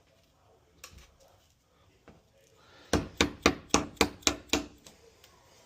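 Hammer striking a wood chisel, cutting out a lock recess in a wooden door: one light tap, then a quick run of about seven sharp blows, about four a second.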